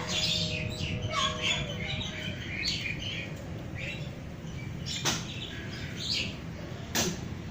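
Small birds chirping in short, high calls, most of them in the first half, with two sharp clicks, about five and seven seconds in.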